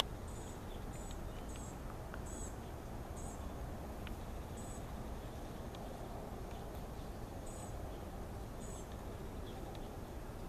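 Short, high chirps from a small creature, about eight of them at irregular intervals, over a steady outdoor background hiss.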